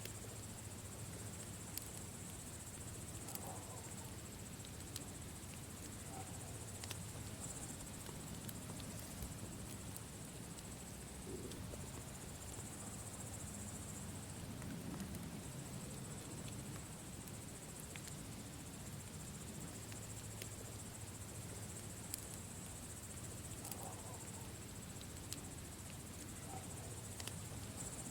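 Campfire burning with scattered sharp crackles and pops over a low steady rumble, and crickets chirping steadily in the background.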